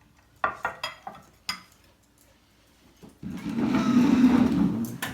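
Kitchen clatter: a few sharp clinks of dishware and utensils in the first second or so, then a louder rough, steady noise lasting about two seconds.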